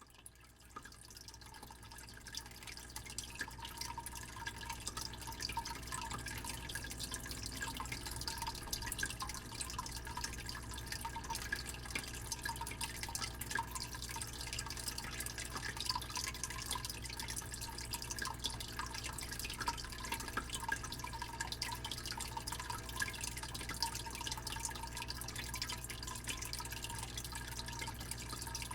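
Fish tank pump humming steadily under a constant stream of small drips and trickling water, fading in over the first few seconds.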